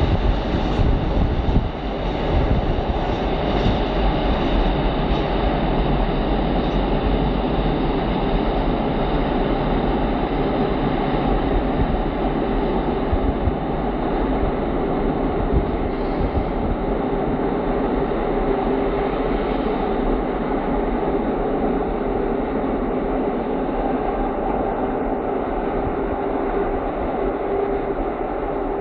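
Freight train of open wagons rolling away along the track, a steady rumble of wheels on rails that eases slightly near the end.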